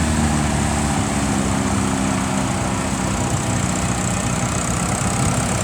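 Ferguson TEF-20's four-cylinder diesel engine running steadily as the tractor drives by. A clear pitched hum gives way about a second in to a rougher, less even engine sound.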